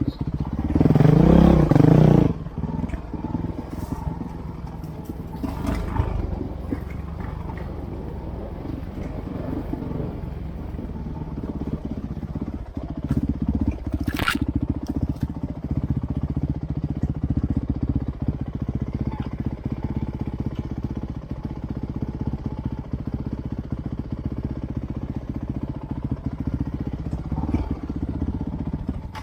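Off-road trail motorcycle engine running, surging loudly about a second in, then running on at lower revs.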